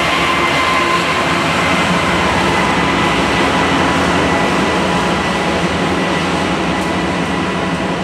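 Train at close range: loud, steady running noise with a thin steady whine through it, easing off slightly toward the end.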